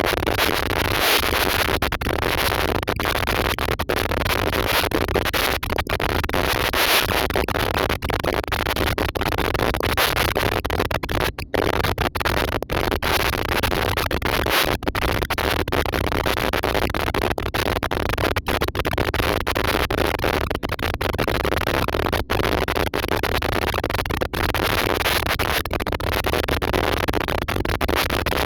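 Airliner cabin noise: a loud, steady roar, broken by many very brief dropouts.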